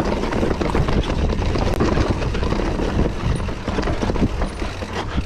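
Mountain bike rolling down a chunky rock trail: a continuous rumble of tyres on rock with a dense clatter of knocks and rattles from the bike.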